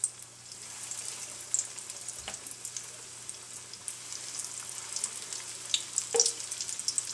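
Breaded chicken wings frying in hot oil: a steady sizzle with scattered crackles and pops.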